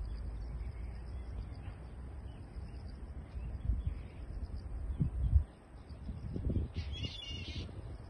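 Wind rumbling on the microphone with a few low thumps, the loudest about five seconds in. Near the end a single short bird call, a quick run of harsh notes lasting under a second.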